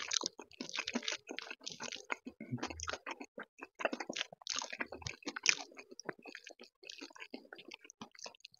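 Close-up chewing of a mouthful of dal and rice with crispy fried potato sticks: irregular wet smacks and clicks, mixed with the soft squish of fingers working the rice and dal together in the plate.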